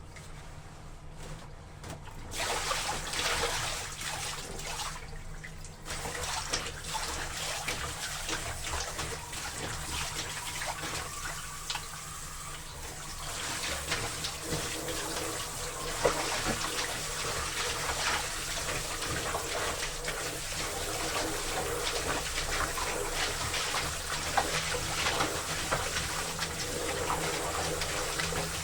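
Water running and splashing into a laundry tub, starting about two seconds in and going on steadily, with scattered small splashes and a steady low hum underneath.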